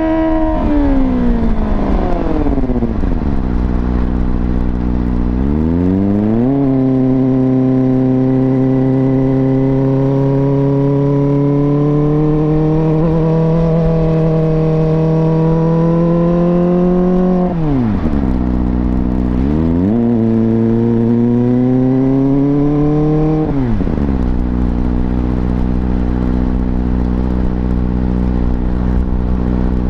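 Kawasaki ZX-25R's 250 cc inline-four engine through an Akrapovič slip-on exhaust with the dB killer removed. The revs fall in the first few seconds, climb sharply about six seconds in and hold steady and high for about ten seconds, drop and climb again near the middle, then fall and settle low for the last few seconds.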